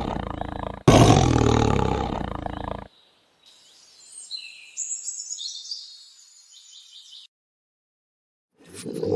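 Big cat roaring: two long, deep roars, the second ending about three seconds in, followed by a few seconds of faint high-pitched chirping.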